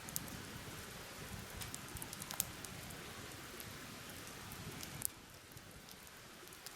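Steady rain falling, with scattered sharp drop ticks over an even hiss; it drops a little in level about five seconds in.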